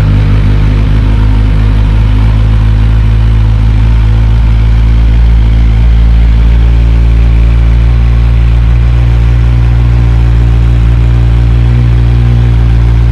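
Kawasaki Z1000R's inline-four engine idling steadily, loud, with the left stock muffler removed.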